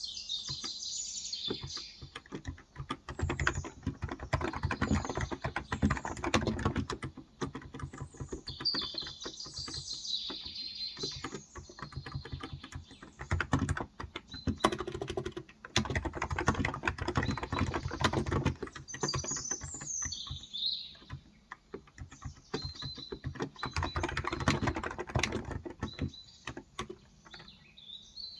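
Steady typing on a Cox Endeavor 35g electro-capacitive tenkeyless keyboard, in runs of rapid keystrokes broken by short pauses. Birds chirp in short high phrases at the start, about nine seconds in and around twenty seconds in.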